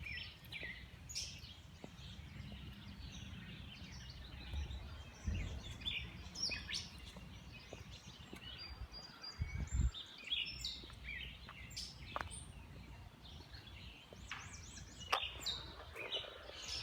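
Songbirds chirping and singing all around, many short calls and trills overlapping, over a low rumble with a couple of dull thumps.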